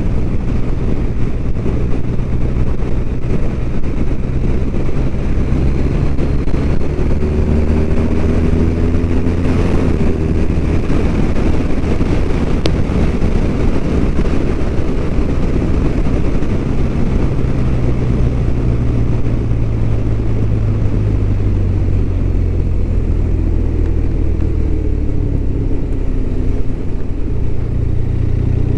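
BMW R1200RT's flat-twin engine running steadily at road speed, under wind and road noise. A second engine tone glides up and down briefly about eight seconds in and again near the end.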